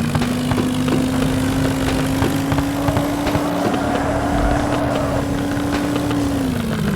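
Vehicle engine running hard under load in a tug-of-war between a car and a Sonalika tractor. It holds a steady pitch, then drops in pitch near the end, with scattered clicks and knocks throughout.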